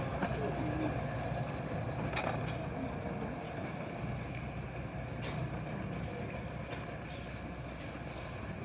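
Steady running noise of a Romney, Hythe and Dymchurch Railway miniature steam train, with a low hum and a few faint clicks and knocks.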